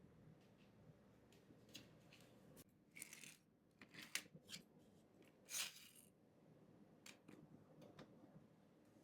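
Near silence with faint room tone, broken by a few short clicks and rustles in the middle, the loudest of them about four and five and a half seconds in.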